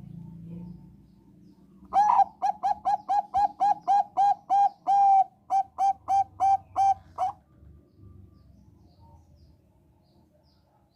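Zebra dove (Thai perkutut bangkok) singing: a quick run of about twenty short, clipped coos, roughly four a second, starting about two seconds in and stopping about seven seconds in.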